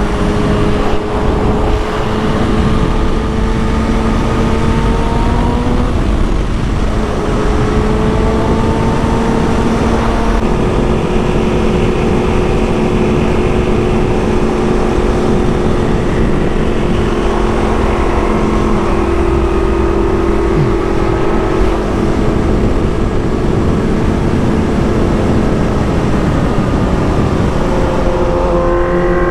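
Kawasaki Ninja ZX-6R inline-four engine running at a steady cruise under heavy wind rush. Its pitch steps a couple of times early on, then rises as it accelerates near the end.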